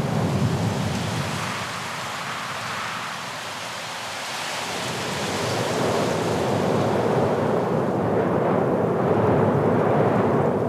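Blizzard wind gusting, a loud rushing noise with a low rumble that eases a couple of seconds in and then builds back up.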